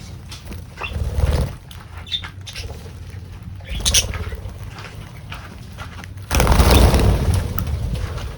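Small birds giving a few short, high chirps, broken by bursts of rustling noise with a low rumble; the loudest burst lasts about a second near the end.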